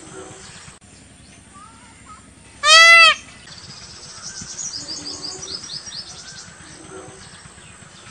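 Birds chirping faintly. About three seconds in comes one short, loud animal call with a rising-then-falling pitch.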